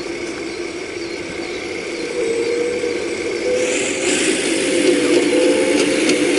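Full-size excavator's diesel engine and hydraulics working while digging hard ground, getting louder about two seconds in and again near four seconds, with metallic clicking and scraping near the end.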